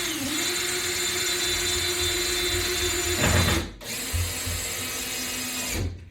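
Power drill running as it tightens toggle bolts into a wall mount: a steady whine that stops a little after three seconds in, then a second, shorter run at a lower pitch.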